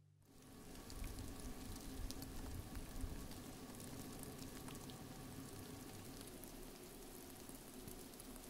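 Steady rain falling on pine boughs and brush, a dense hiss with many small drop ticks, coming in about a second in.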